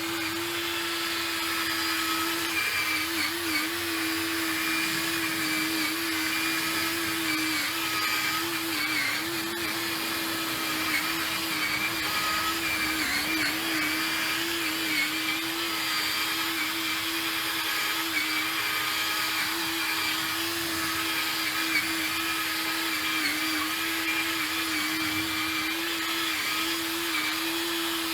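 Inexpensive cordless drill running steadily with a polishing pad, buffing a plastic headlight lens. Its motor whine holds one pitch that wavers and dips slightly now and then.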